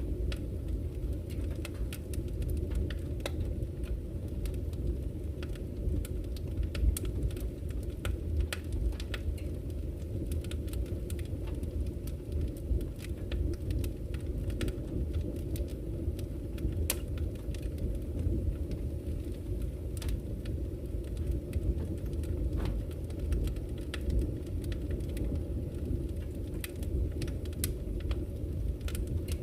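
Campfire crackling, with many irregular sharp pops and snaps, over the steady low rush of a flowing river.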